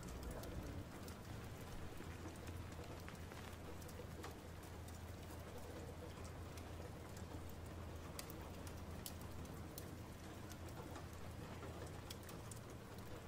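Quiet, steady ambience of light rain: a soft even hiss with scattered faint ticks over a steady low hum.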